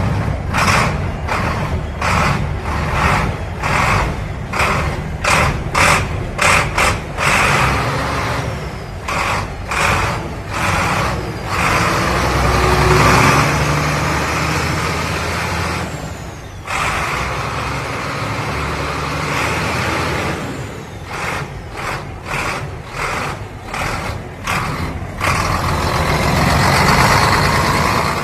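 Heavy tractor truck (HOWO NX) running, with hissing air over the engine; the level swells and dips repeatedly.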